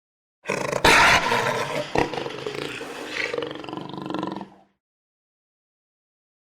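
Jaguar roaring for about four seconds, starting abruptly about half a second in, with two sharp clicks, one near the start and one about two seconds in, then cutting off suddenly.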